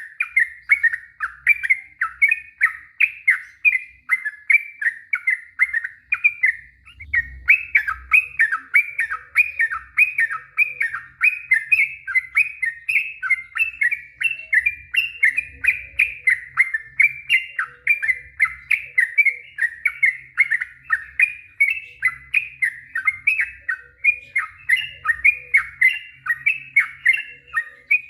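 Yellow-vented bulbul (trucuk) singing a long unbroken run of short, quick notes, about three a second, without a pause: the long 'ropel' song.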